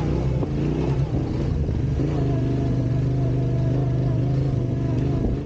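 Trail motorcycle engine running under way, its pitch shifting in the first couple of seconds and then holding steady, cut off abruptly at the end.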